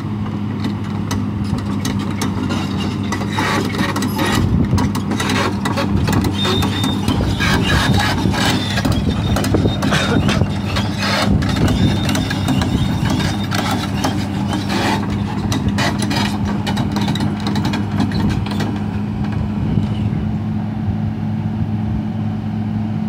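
Sany SR150C rotary drilling rig's diesel engine running steadily while its steel crawler tracks rattle and clank as it travels, the clatter busiest from a few seconds in until near the end, with a faint high squeal in the middle.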